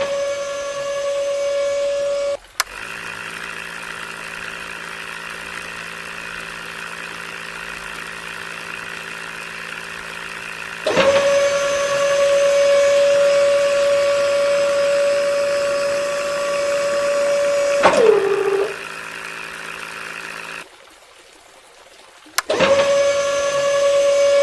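Small DC toy motors of a homemade tractor-driven borewell rig running in turns: a steady high-pitched whine that switches on and off three times, its pitch falling as it winds down once, alternating with a lower steady motor hum.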